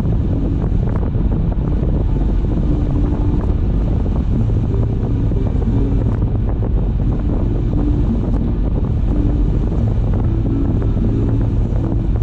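Steady road and wind noise of a moving car: a low rumble with wind buffeting the microphone.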